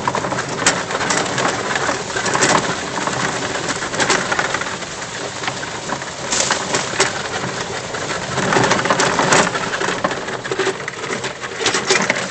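Electric EZGo golf cart driving along a dirt trail: a steady rough noise of the tyres on the ground, with tools and loose items rattling and knocking in the cart.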